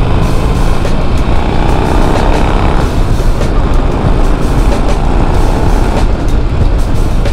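Yamaha XV950 Bolt's air-cooled V-twin running steadily under way, with wind noise on the microphone.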